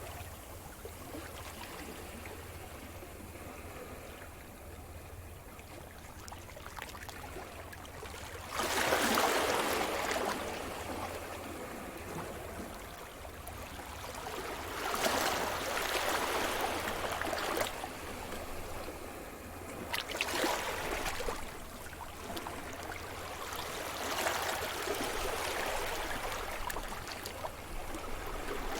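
Sea surf washing on a shore: after a calmer lull, waves break and rush in roughly every five seconds, each surge starting suddenly and fading over a few seconds.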